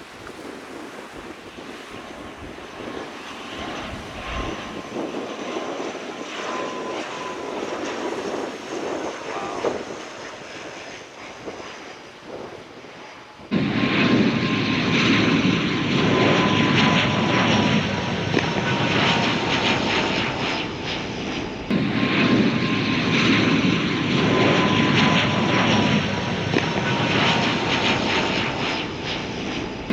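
Twin-turboprop ATR 72-500 airliner on its landing run. The engines and propellers drone with a thin whine that falls slowly in pitch. The sound jumps suddenly much louder about halfway through.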